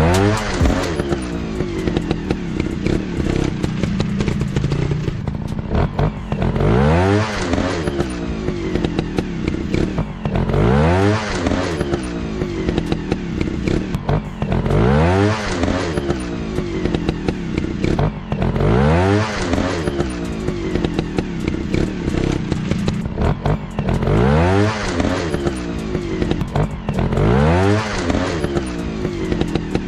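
Dirt bike engines running and revving in repeated bursts, the pitch rising then falling about every four seconds over a steady low engine drone.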